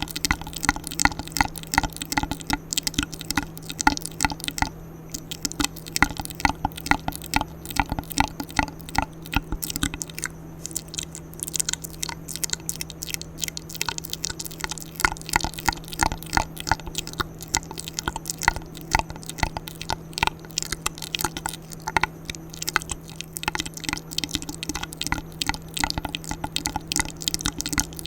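ASMR mouth sounds: rapid wet clicks, smacks and pops from lips and tongue close to a sensitive microphone, going on without pause, over a faint steady hum.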